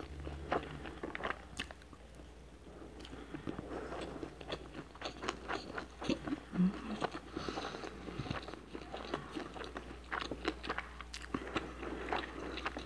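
Close-miked chewing of a mouthful of rice and tomato, with many short wet clicks and lip smacks. The spoon scoops more rice from the plate now and then.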